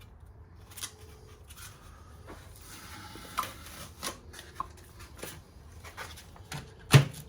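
Sandpaper being handled and rubbed by hand against car bodywork: scattered rustles, scrapes and clicks, a stretch of rubbing about three seconds in, and a loud thump near the end.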